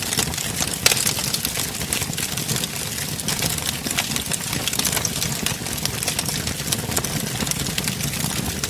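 Wood fire burning with a steady low rumble of the flames and frequent sharp crackles and pops, one of the loudest about a second in.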